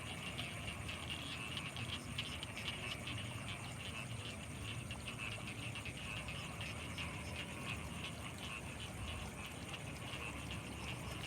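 Night chorus of frogs with insects: dense, rapid calling that never pauses, over a steady high-pitched insect trill and a faint low rumble.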